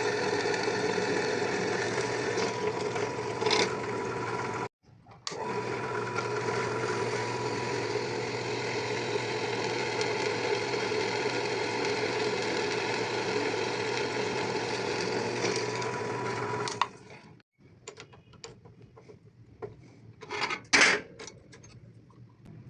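A small electric motor running steadily, cutting out briefly about five seconds in and stopping about seventeen seconds in. Scattered knocks and a short louder clatter follow near the end.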